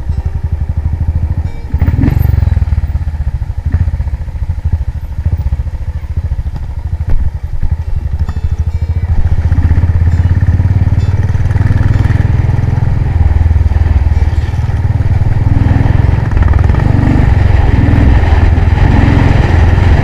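Motorcycle engine running, getting louder about halfway through.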